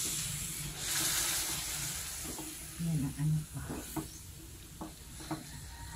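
Beef slices sizzling in a wok as a wooden spatula stirs them, scraping against the pan several times. The sizzle is loudest in the first second or two, then quieter.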